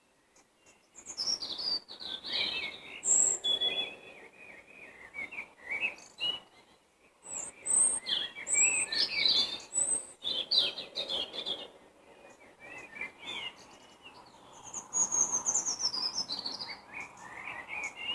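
A songbird singing close by in three long bouts of quick, varied chirps and trills, high-pitched, with short pauses between the bouts.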